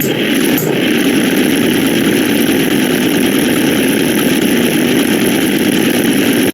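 A steady, harsh rumbling noise like an idling engine, starting and cutting off abruptly: a looped sound-effect clip.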